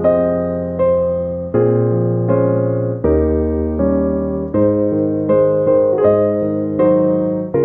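Background music: a slow piano or electric piano piece, chords struck about every three-quarters of a second and left to fade over held bass notes.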